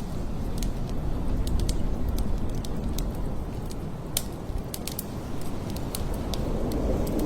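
Blizzard wind blowing steadily in low gusts that swell and ease. Many scattered sharp crackles and ticks sound through it.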